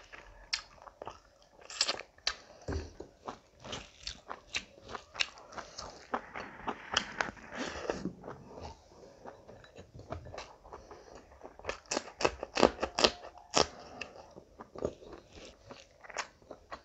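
Close-miked chewing and biting of chicken and rice eaten by hand, with wet mouth sounds and many short crisp crunches. There is a run of louder crunches about twelve to thirteen and a half seconds in.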